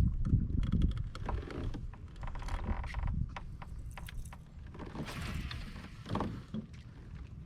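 Small knocks and clicks of gear being handled on a kayak on the water, over a low rumble that is heaviest in the first second.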